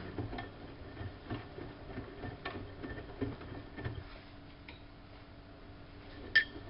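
Siemens Siwamat washing machine running, with irregular soft knocks and clicks from the drum and its mechanism. A faint steady motor hum sets in partway through, and there is a sharper click near the end.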